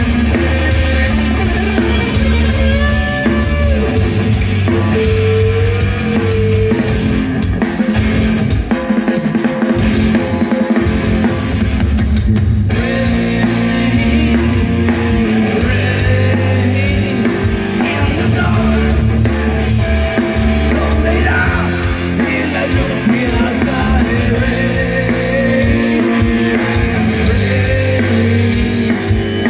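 Rock band playing live: electric guitars over bass and a drum kit, with a pitched lead line wavering in the middle register.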